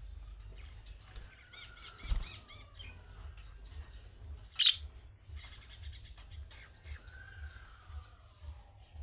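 Budgerigars chirping and warbling, with rapid trills, drawn-out gliding whistles, and one sharp loud chirp about halfway through. A soft thump comes about two seconds in.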